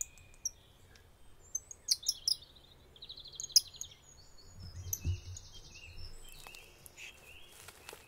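Several wild songbirds chirping and trilling in short phrases: sharp high chirps and rapid buzzy trills. A faint low rumble runs underneath, with a soft thump about five seconds in.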